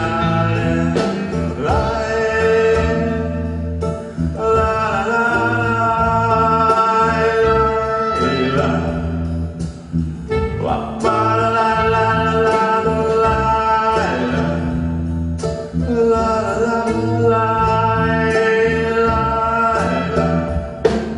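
Folk band's song performed live: a voice sings long held notes, sliding up into each new phrase every few seconds, over plucked-string and bass accompaniment.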